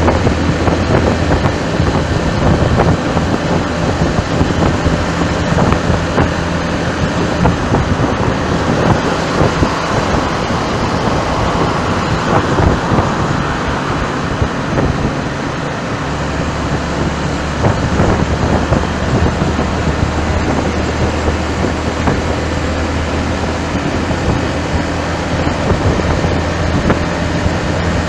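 Heavy wind noise on the microphone over the steady low hum of a moving vehicle's engine and road traffic. The engine hum changes note about halfway through.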